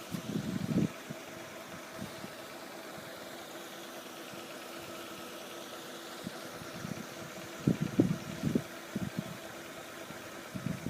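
Steady engine hum at an even level, with short bursts of low rumbling near the start and again around eight seconds in.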